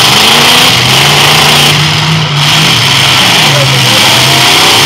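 Demolition derby cars' engines running and revving loudly together in a mud pit.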